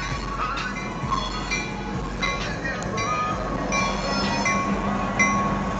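Freight train led by a diesel locomotive rolling through a grade crossing: steady engine and wheel rumble on the rails, with a high metallic ringing repeating about every three-quarters of a second over it.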